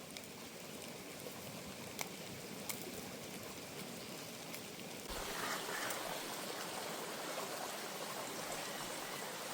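Breakfast cooking on a camp stove: a steady hiss with a couple of sharp clicks about two seconds in, growing louder and fuller about five seconds in.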